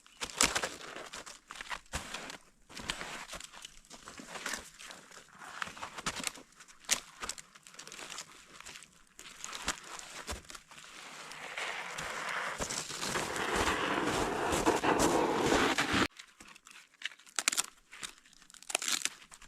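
Dry crinkling, tearing and snapping of kindling being handled to lay a campfire, many short crackles in quick succession. A rustling noise then builds for several seconds, becomes the loudest sound, and cuts off abruptly near the end.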